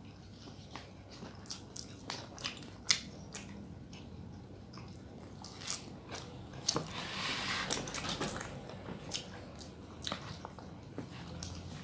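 Close-miked eating: biting and chewing with scattered crisp crunches and sharp mouth clicks, thickening into a denser stretch of chewing a little past halfway.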